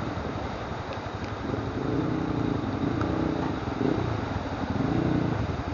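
Z200S motorcycle engine revving up and down several times, its pitch rising and falling, starting about one and a half seconds in, over a steady rush of wind and road noise.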